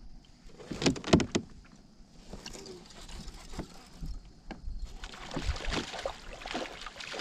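Handling noise aboard a fishing kayak: a few sharp knocks against the hull about a second in, then a busier stretch of rattling and water sounds near the end.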